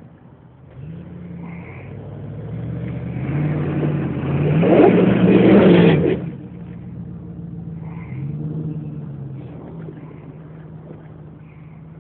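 Jeep Grand Cherokee engine revving under load as it climbs out of a mud hole. The revs build from about a second in to a loud peak around five seconds, drop off abruptly just after six seconds, rise briefly again near eight seconds, then settle back to a lower steady run.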